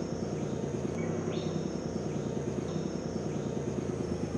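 Bus engine idling steadily with a low hum, with insects chirring faintly behind it.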